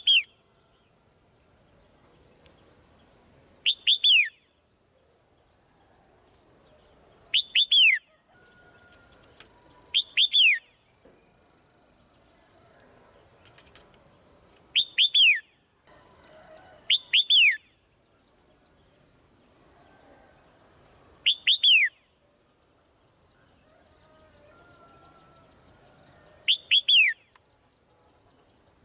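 Swallow calling: short clusters of two or three quick chirps, each sliding down in pitch, repeated every three to four seconds, over a faint steady high hiss.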